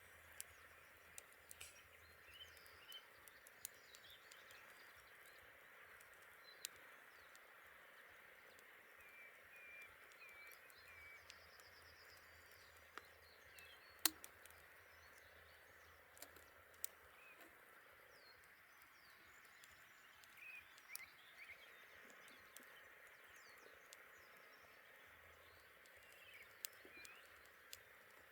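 Campfire crackling with scattered sharp pops, one much louder pop about halfway through, over a faint steady background chorus with short chirping animal calls.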